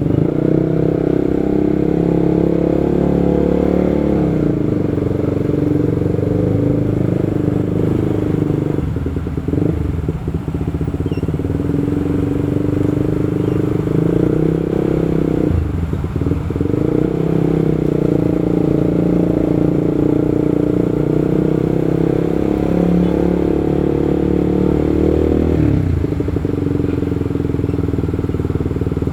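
Motorcycle engine running steadily on the move, its pitch dropping and picking back up several times as the throttle eases off and opens again.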